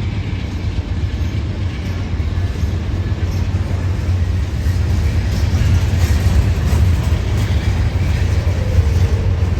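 A train passing close by: a steady low rumble that grows a little louder in the second half.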